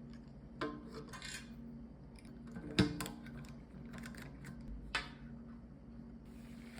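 Small hard parts handled and knocked together, with sharp clicks about half a second, three seconds and five seconds in, the middle one loudest, over a steady low hum.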